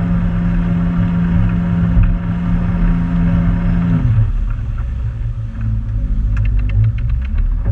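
Motorboat engine running steadily, then dropping to a lower, slower rumble about four seconds in as it is throttled back. A rapid run of clicks comes near the end.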